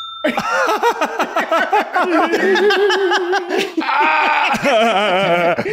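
High-pitched giggling laughter, rapid repeated 'hee-hee' bursts running almost without pause.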